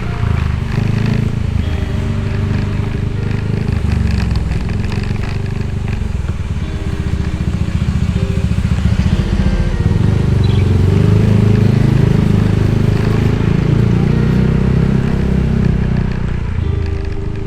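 Motorcycle engine running under way, its pitch rising and falling with the throttle, loudest around the middle of the stretch.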